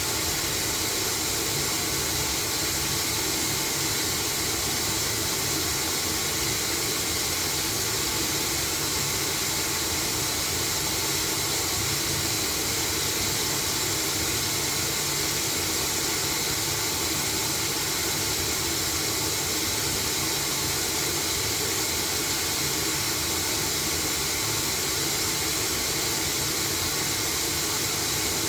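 LG washing machine running with a load of blankets: a steady, even noise with a strong hiss and no breaks or rhythm.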